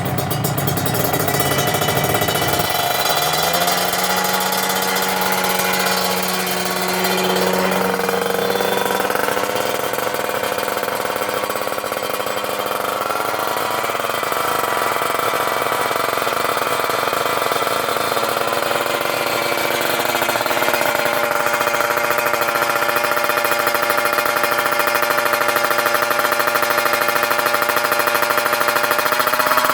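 Kawasaki Ninja 150 two-stroke single-cylinder engine revving through a kVi stainless aftermarket exhaust, with a crisp, raspy exhaust note. The revs climb about three seconds in, then are held high and step up twice more.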